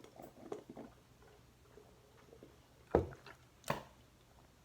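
Quiet handling sounds at a table: a few faint clicks, then two short knocks less than a second apart, about three seconds in.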